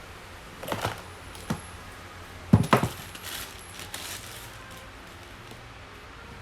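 Knocks and clatter of a cordless tool set being handled and set down (tool, battery and charger): a handful of separate hard knocks in the first four seconds, the loudest two together about two and a half seconds in.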